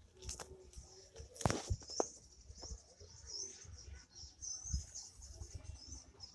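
Birds calling around the yard: a steady run of small high chirps with a few low cooing notes. A couple of sharp knocks come early on from the phone being handled.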